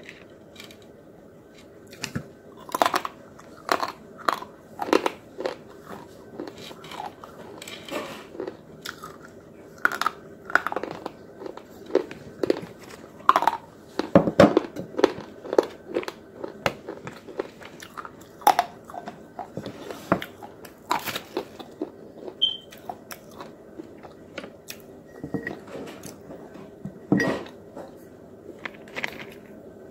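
Close-up biting and chewing of crunchy white sticks: irregular sharp crunches throughout, densest and loudest about halfway through.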